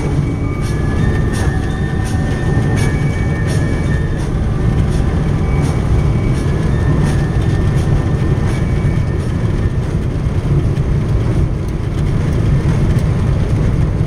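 Steady low road and engine rumble heard inside a car driving on wet roads in the rain, with faint tones of music and light regular ticks over it.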